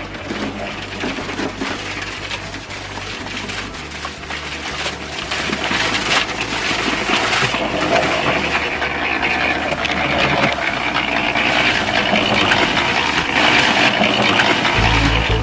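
Small electric motor of a miniature model concrete mixer running with a steady rattling whir as the drum discharges wet concrete into a toy wheelbarrow. It gets louder about six seconds in.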